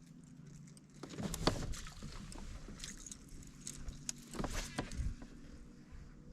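Light, irregular clicks and knocks of gear being handled aboard a fishing kayak, over a soft background hiss, with a few louder knocks about a second and a half in and again around four and a half to five seconds.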